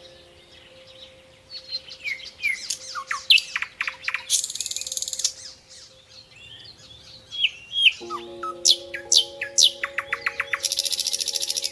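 Several birds calling: short chirps, quick falling whistles and fast trills, with two buzzy rattling bursts about a second long, near the middle and at the end. Under them soft sustained background music chords change about eight seconds in.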